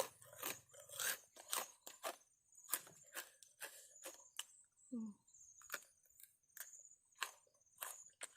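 Close-up crunchy chewing of raw vegetables, eaten to cool the heat of a spicy seafood papaya salad: irregular sharp crunches about two or three a second, with a brief hum about five seconds in.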